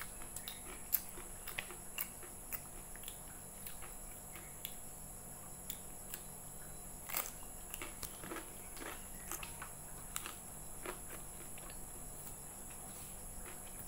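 Close-up eating sounds: wet chewing and small mouth smacks and clicks as fried rice vermicelli and fritters are eaten by hand, over a steady faint background hum.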